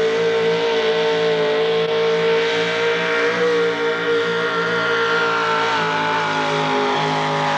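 Naturally aspirated 600-plus cubic inch Chevrolet V8 in a modified four-wheel-drive pulling truck at full throttle hauling the sled. The engine note holds high and steady, then sinks slowly in pitch over the last few seconds as the load builds.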